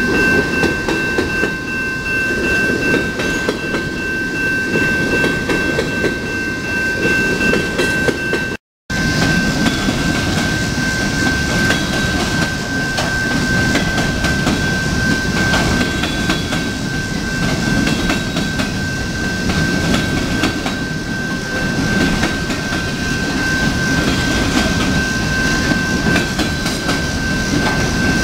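Coal hopper cars of a freight train rolling past, a steady rumble with wheels clicking over the rail joints, and a steady high tone ringing above it. The sound drops out for a moment about nine seconds in.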